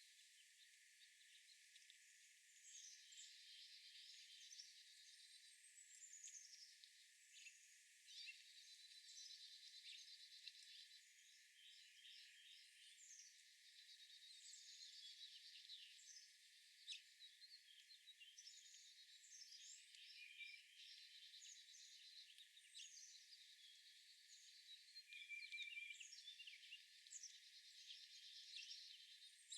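Several small songbirds singing and chirping at once: repeated rapid trills and short down-slurred chirps that overlap, faint and thin, with no low end.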